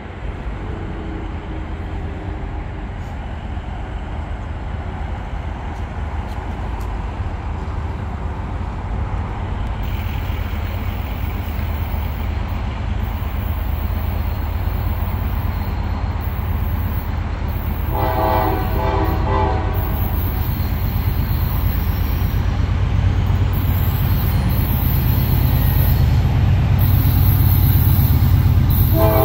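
Approaching diesel freight locomotives, their low engine rumble growing steadily louder. Past the middle the multi-chime air horn sounds for about two seconds, and it sounds again at the very end; a fainter horn is heard at the start.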